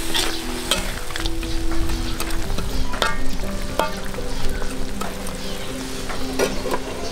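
Food frying and sizzling in a cooking pot while it is stirred, with a few sharp clinks of the utensil against the pot, the clearest about three and four seconds in.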